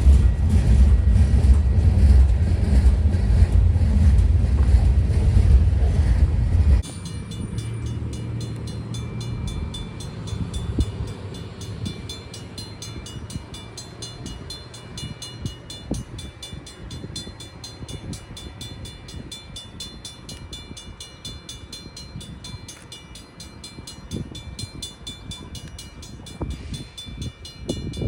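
A train passing: a loud, deep rumble for about the first seven seconds stops abruptly, then railcars roll by more quietly with an even, repeating clicking and a faint high squeal.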